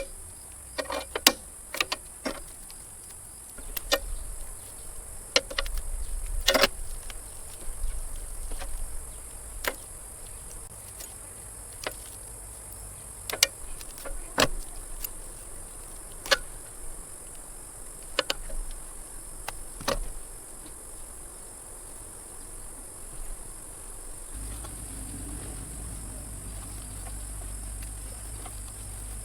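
Steady high-pitched chirring of crickets, with scattered sharp clicks and knocks through the first two-thirds. A low steady hum comes in near the end.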